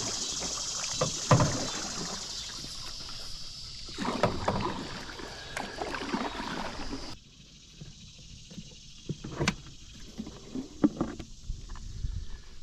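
Knocks and clunks of gear being handled in a small boat, over a steady high insect buzz. The buzz cuts off abruptly about seven seconds in, leaving scattered lighter taps and knocks.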